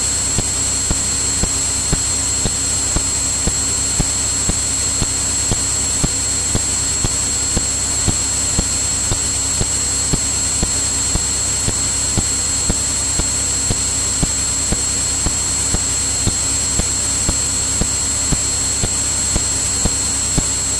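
Steady drone of a Cirrus light aircraft's piston engine and propeller in cruise flight, heard through the aircraft's intercom/radio feed. A constant high-pitched electrical whine sits over it, with a faint regular ticking about twice a second.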